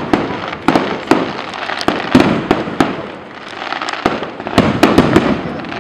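Fireworks display: a rapid, irregular barrage of bangs from aerial shells with continuous crackling between them, easing briefly about halfway through before picking up again.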